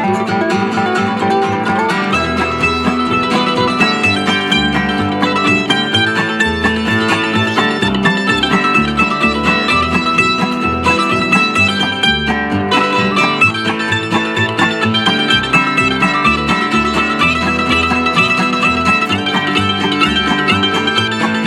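A band playing a song on guitars and other plucked string instruments, with a bass line coming in about two seconds in.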